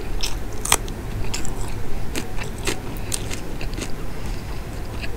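Close-miked biting and chewing of a raw green chilli, with irregular sharp crunches, loudest about a second in.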